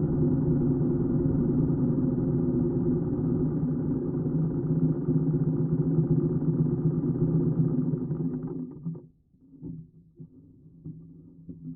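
A 1941 BMW R75's flat-twin engine runs steadily, then dies away about nine seconds in, leaving a few faint knocks.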